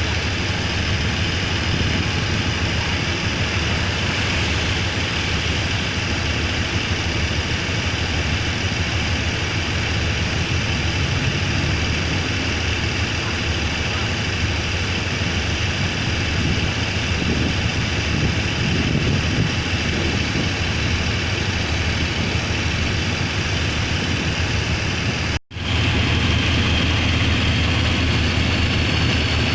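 Diesel locomotive engine running steadily at idle with a low, even hum. It cuts out for a moment about 25 seconds in, then carries on slightly louder.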